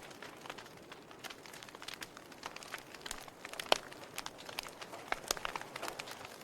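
Wood fire in a fireplace crackling, with irregular sharp pops and snaps from the burning logs over a soft hiss; the loudest pop comes a little past the middle.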